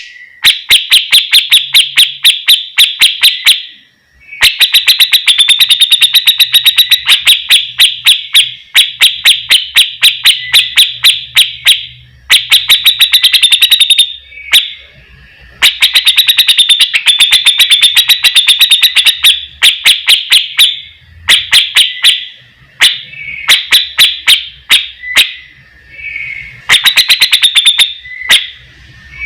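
Grey-cheeked bulbul (cucak jenggot) singing loudly in long runs of rapid, sharp repeated notes, several a second, broken by short pauses: the harsh, rattling 'besetan' call series.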